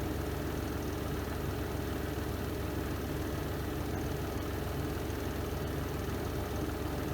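Spin drum of a Renova semi-automatic twin-tub washing machine spinning at speed, a steady low hum with a couple of faint ticks.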